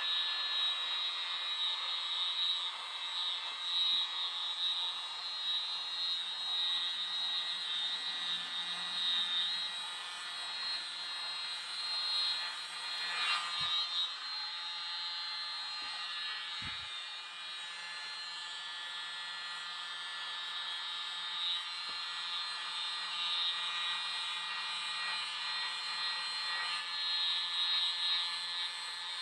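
Tiny handheld electric mini blower running steadily: a rush of air with a high motor whine, swelling and dipping a little in loudness.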